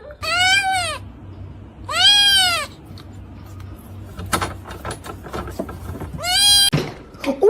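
Three loud, drawn-out animal calls, each rising and then falling in pitch, with a few faint knocks between the second and third.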